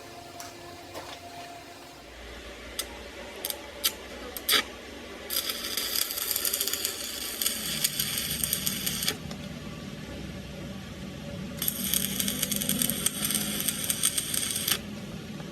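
A few sharp metallic clicks, then two bursts of rattling mechanical noise, each about three to four seconds long, over a low rumble.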